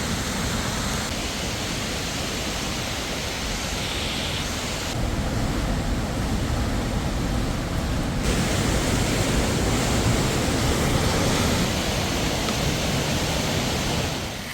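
Waterfall: a steady, dense rush of falling water, its tone shifting abruptly a few times as shots change, then cutting off suddenly at the end.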